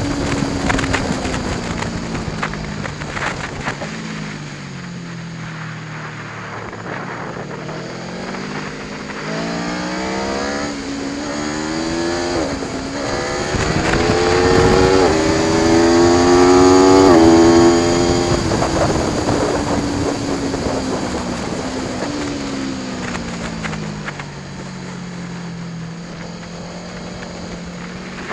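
Aprilia Tuono V4 1100 Factory's V4 engine at track speed. It slows on the overrun at first, then accelerates hard through several gears, its pitch climbing and dropping at each upshift, loudest about 17 seconds in. Afterwards it slows again with falling revs.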